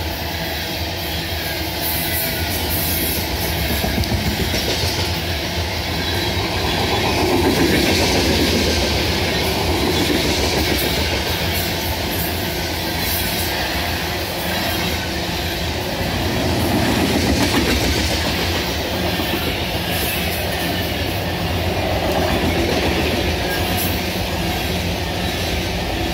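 Coal train's loaded hopper cars rolling past on steel wheels: a steady rail rumble with wheels clattering over the rail joints, swelling louder twice.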